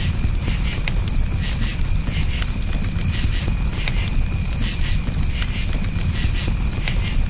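Crickets chirping in steady, pulsing trills over the scattered pops and crackles of a burning wood campfire, with a low rumble beneath.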